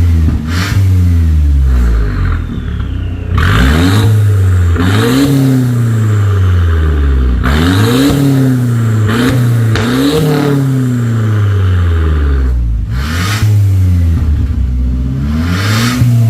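Mercedes-Benz C250 (W204) engine revved repeatedly through an aftermarket full-system valved exhaust: about half a dozen sharp rises in revs, each falling back before the next.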